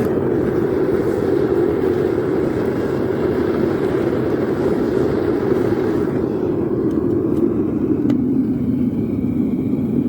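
Propane burner firing into a small forge: a steady, loud rushing flame noise, heating a charge of wet coffee grounds.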